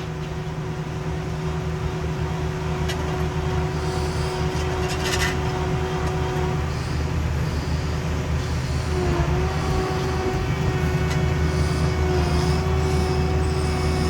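Heavy diesel paving equipment running steadily, with a steady whine over the engine drone and a few short metallic clanks, growing gradually louder.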